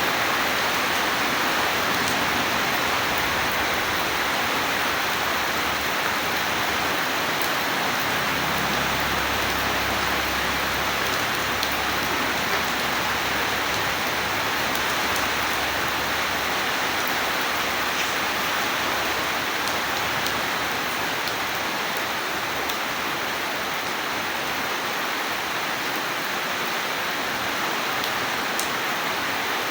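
Steady heavy rainfall, a dense even hiss with scattered individual drop ticks. About eight seconds in, a low rumble of distant thunder swells for a few seconds and fades.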